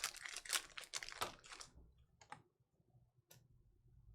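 Stiff chrome trading cards being flicked and slid against each other in the hands, giving a quick run of crisp clicks and snaps, then a few single clicks.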